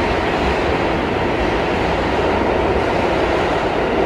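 Passenger train running, heard from inside the car: a steady rumble and rushing noise.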